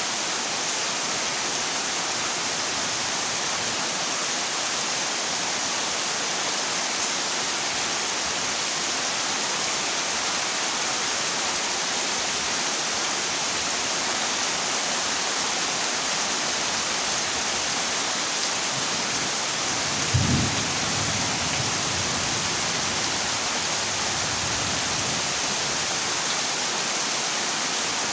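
Heavy rain falling on a corrugated zinc roof, a steady dense hiss. About twenty seconds in, a brief low rumble of thunder rises over it.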